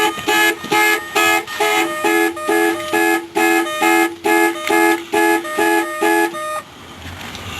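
2005 Ford Taurus's anti-theft alarm sounding through the car horn: rapid, evenly spaced two-tone honks, about two a second, that stop about six and a half seconds in. The alarm was set off by power returning to the dead-battery car from a jump box.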